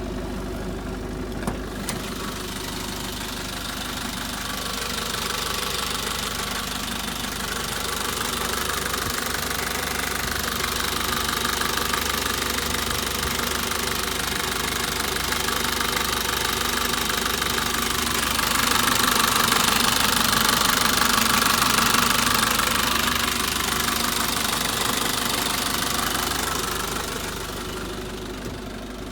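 Nissan Caravan's QD32 3.2-litre four-cylinder diesel engine running steadily. It grows gradually louder through the middle and eases off near the end.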